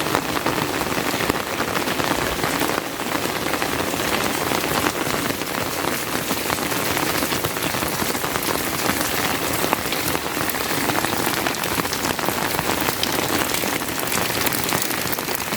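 Steady, heavy rain: a dense, even patter of many raindrops striking surfaces close by.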